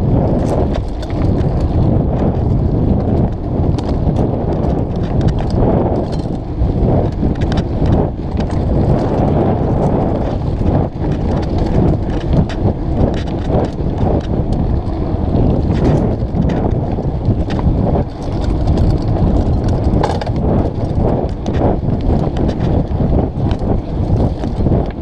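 Mountain bike ridden over a dirt singletrack: a constant low rumble of tyres and frame, broken by frequent short knocks and rattles as the bike goes over bumps.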